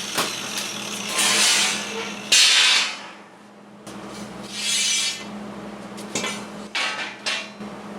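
A power tool cutting steel bar with a steady motor hum and three hissy cutting passes, followed by a few sharp metal clinks.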